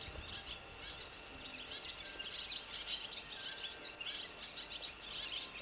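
Small songbirds singing, a dense run of quick high chirps and trills from several birds at once.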